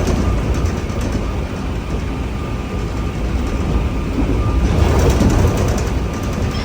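Running noise inside a JR Series 103-3500 electric multiple unit car (KuMoHa 103) on the move: a steady low rumble of wheels on rail and traction motors, with a faint steady whine. It grows louder about five seconds in.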